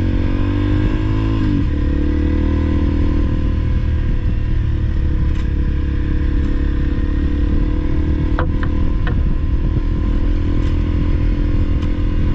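Honda CRF300L's single-cylinder four-stroke engine running under way on a dirt track. Its revs climb for about a second and a half, then drop sharply and settle into a steady note. A few sharp clicks come about two-thirds of the way through.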